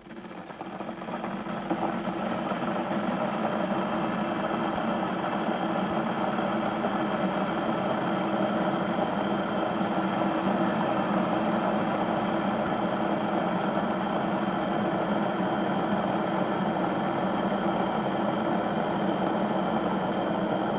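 Electric kettle heating a water-and-vinegar descaling solution, a steady rumble that swells up over the first two seconds and then holds.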